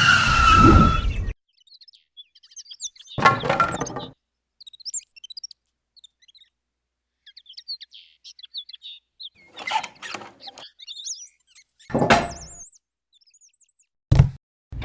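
Small birds chirping in short, scattered high calls, broken by a few brief knocks or clatters. A loud sound that carries on from before cuts off sharply about a second in.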